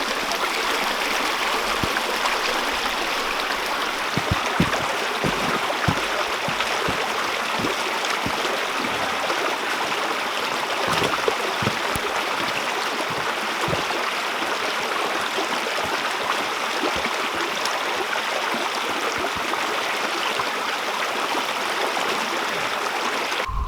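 Creek water running steadily, a close, even wash of flowing water, with a few soft low thumps in the first half.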